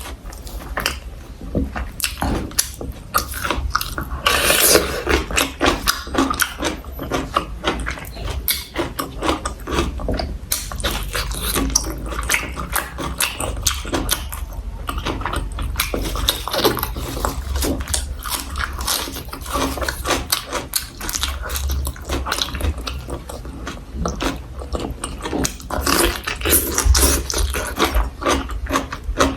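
Close-miked chewing and crunching of food, a dense run of sharp crunches and mouth clicks with brief pauses.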